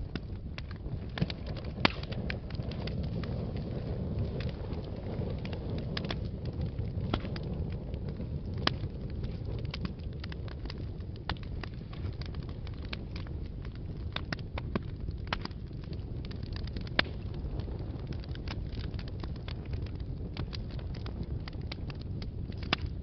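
Wood fire burning in a fireplace: a steady low rumble of flames with frequent sharp crackles and pops scattered at irregular intervals.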